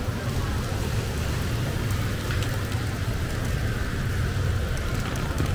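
Steady rain falling on wet city pavement, with a low steady rumble underneath.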